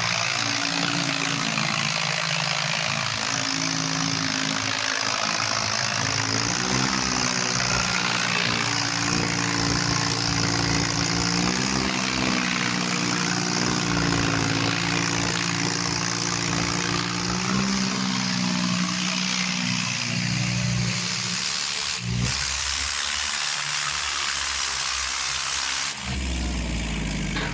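Tractor diesel engines running hard under load, their pitch wavering up and down, over a steady loud hiss.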